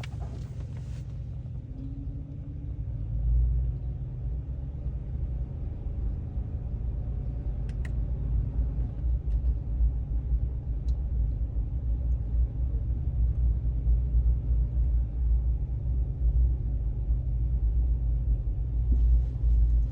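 A low, steady rumble that grows louder about three seconds in, with a few faint clicks.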